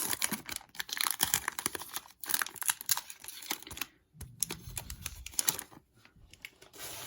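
Foil wrapper of a Topps Chrome baseball card pack being torn open and crinkled: a dense run of sharp crackling clicks that thins out after about four seconds.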